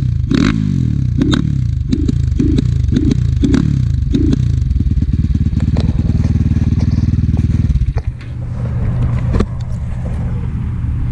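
Enduro motorcycle engine running, revved in quick repeated blips about twice a second for the first few seconds, then held steady. Near eight seconds in it drops away suddenly and settles to a lower, steadier running sound.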